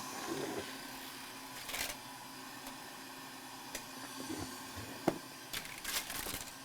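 Faint handling sounds of circuit boards being picked up and moved: a few soft clicks and short rustles over a steady low hum.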